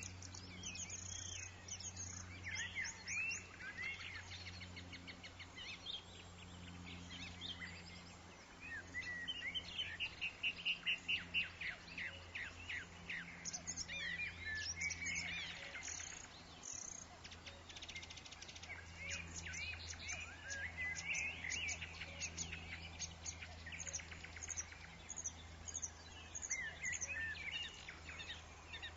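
Several woodland birds chirping and singing, short calls and quick trills overlapping from different birds, over a steady low hum.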